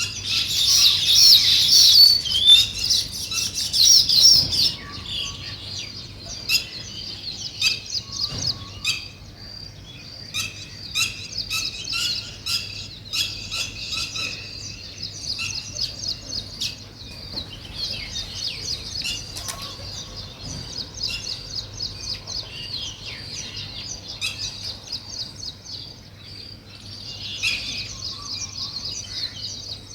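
A colony of weaver birds chattering with rapid high chirps. The chatter is loudest and densest in the first few seconds, then goes on as steady chirping.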